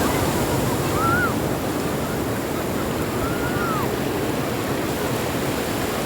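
Sea surf washing steadily onto a beach. Two brief, faint, high rising-and-falling calls come through about one and three seconds in.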